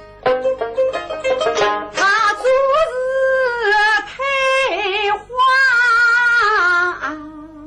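Suzhou pingtan (tanci) singing: a voice holds long, wavering notes over plucked sanxian and pipa accompaniment.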